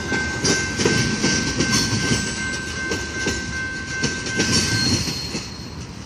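Freight cars of a mixed freight train rolling past, wheels clicking over rail joints over a low rumble, with a steady high-pitched wheel squeal that stops near the end. The sound then falls away.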